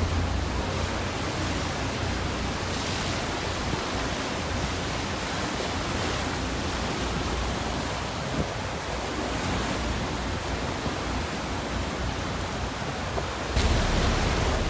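Steady rush of wind and sea water heard from a sightseeing boat's deck over the tidal currents, with a low rumble underneath. The noise grows suddenly louder near the end.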